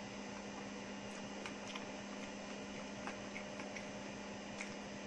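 Steady low electrical hum over quiet room tone, with a few faint clicks.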